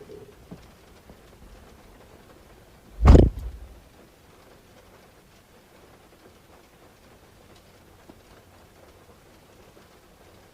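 A single heavy thump about three seconds in, over faint steady background noise.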